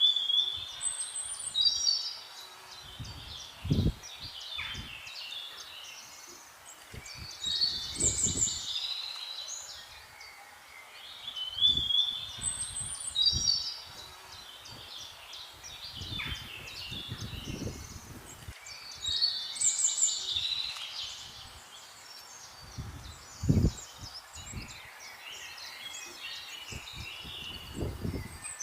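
Songbirds singing, with one bird repeating a short, bright phrase every few seconds. Other calls fill the gaps, and short low rumbles come and go underneath.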